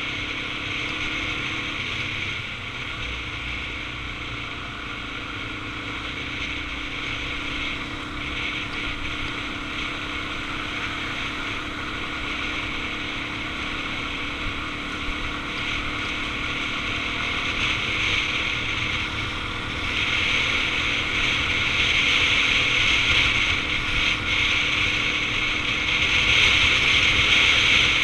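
Suzuki DR-Z400's single-cylinder engine running at a steady pace on the move, with wind buffeting the microphone. The sound grows louder about two-thirds of the way through and again near the end.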